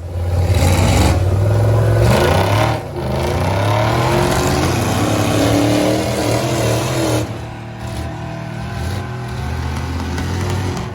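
Engine revving hard, its pitch climbing and falling, loudest for the first seven seconds and then running quieter.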